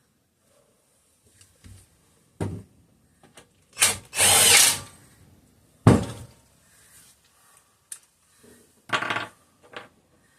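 Power drill/driver run in short bursts, driving bolts back into the engine; the longest burst lasts about a second, near the middle.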